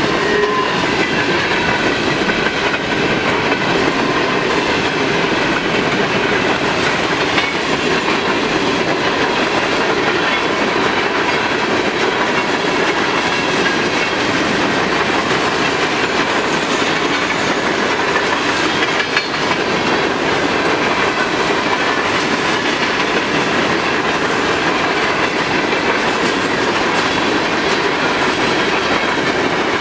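Empty high-top coke hopper cars of a long freight train rolling steadily past, their steel wheels clicking over the rail joints, with a faint thin wheel squeal over the rumble.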